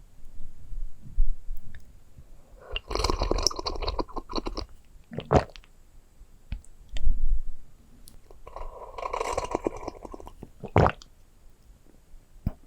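ASMR trigger object handled right at the microphone: two bursts of dense crackling, each about two seconds long and each followed by a single sharp knock.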